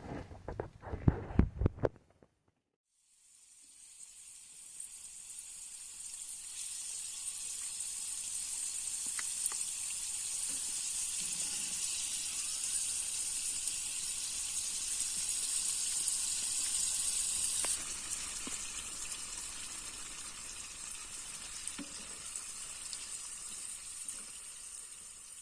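Steady sizzling hiss that swells in over a few seconds, holds, eases off a little over the second half, and fades away. A few brief knocks come before it at the very start.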